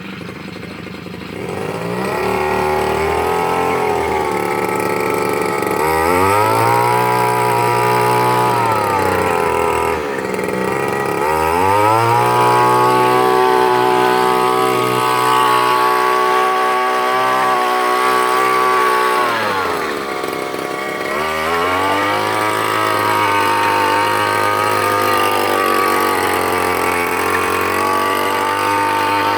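Petrol brush cutter fitted with a roller tilling head, its engine revved to full speed in four long stretches with brief dips back toward idle between them, as it loosens soil. The engine drops away at the very end.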